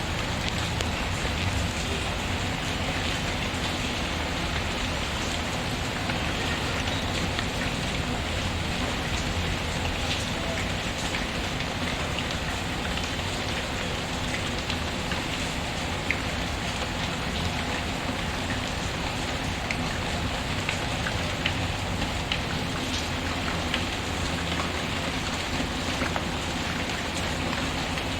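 Steady, even rain falling on a surface, with a few faint, sharp clicks scattered through it.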